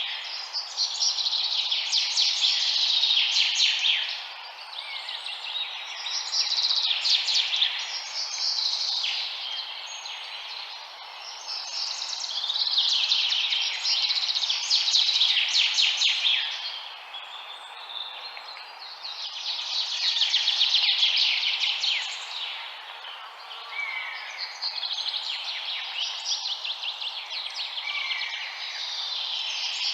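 Many small birds chirping and chattering together in dense, rapid bursts that swell and fade every few seconds, over a steady hiss.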